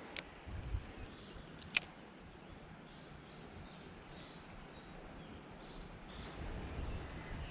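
Quiet creekside ambience with faint bird chirps, broken by two sharp clicks in the first two seconds.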